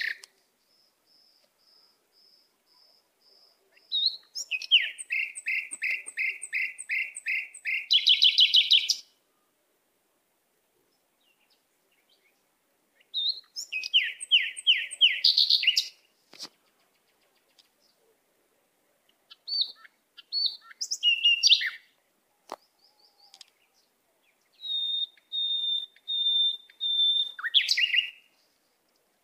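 Small pet cage birds chirping in four bursts of quick repeated high chirps that speed into short rapid trills, with gaps of a few seconds between the bursts.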